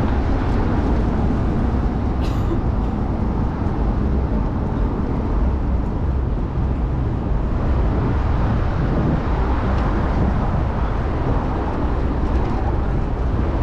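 Steady, loud rumble of wind and road noise from riding a bicycle through city traffic, with a faint click about two seconds in.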